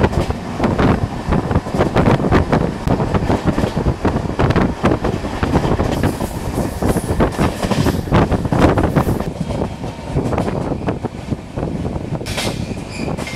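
Indian Railways express passenger coach running at speed, heard from the open door: steady rushing noise with wheels clattering irregularly over rail joints and points. A brief high-pitched tone sounds near the end.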